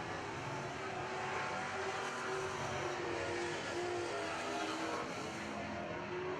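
Several dirt-track Super Trucks racing in a pack, their engines running hard at high revs. Their pitches waver up and down as they go around the track.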